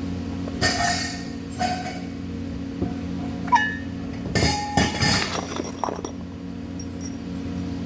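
Metal objects clinking and knocking together several times, each strike ringing briefly, with a cluster of clinks around the middle, over a steady electrical hum.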